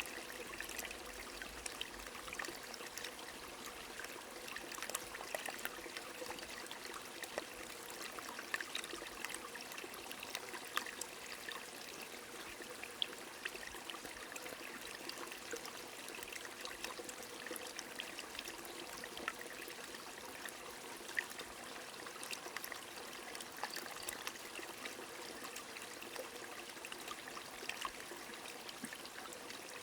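A small stream trickling steadily, with rain falling and scattered drops ticking throughout.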